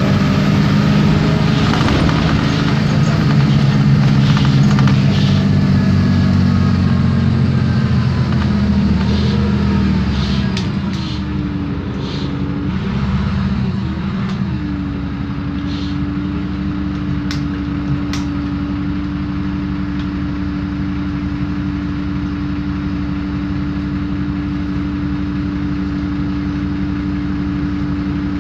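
Isobus City 1200 city bus's MAN D0836 LOH six-cylinder diesel and ZF Ecomat 6HP504C automatic driveline running, heard on board. It is louder for about the first ten seconds, shifts in pitch between about ten and fifteen seconds in, then settles into a steady hum with one held tone, with a few light clicks in between.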